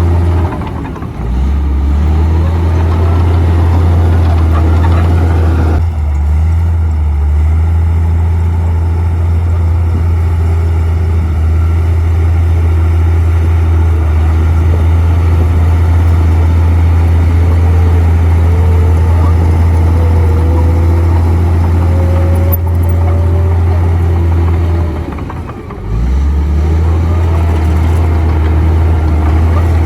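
Komatsu D58P bulldozer's diesel engine running steadily at working revs. Its note drops and recovers briefly about a second in and again near the end.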